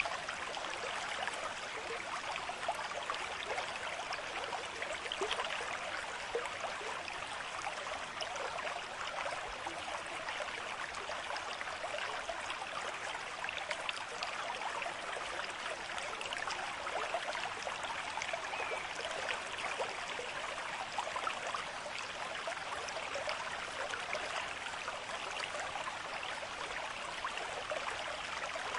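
Water running and splashing over rocks in a stream, a steady rushing and trickling with no break.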